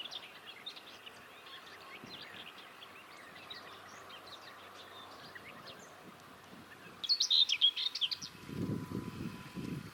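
Common whitethroat singing: quick scratchy warbling phrases, with a louder burst of song about seven seconds in. A low rumbling noise comes in near the end.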